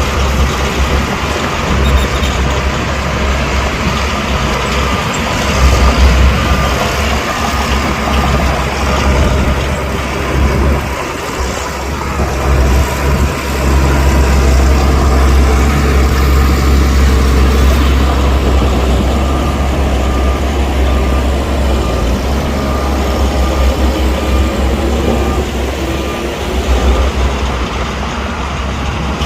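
Heavy diesel earthmoving machinery working under load: a deep, steady engine rumble with rattling and clanking.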